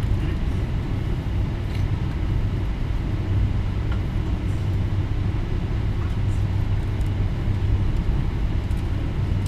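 Steady low drone of a Boeing 777-300ER at the pushback stage, a constant hum with no rise or change in pitch.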